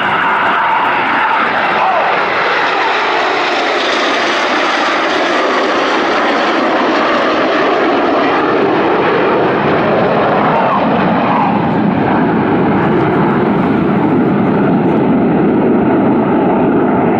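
Red Arrows BAE Hawk T1 jets, powered by Rolls-Royce Adour turbofan engines, flying over in formation with a loud, steady jet noise. The high hiss fades from about halfway through, leaving a deeper, lower sound.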